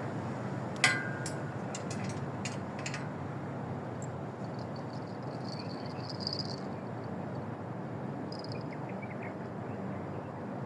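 Steady outdoor background noise with one sharp click that rings briefly about a second in, followed by a few softer clicks over the next two seconds and faint high chirps near the middle.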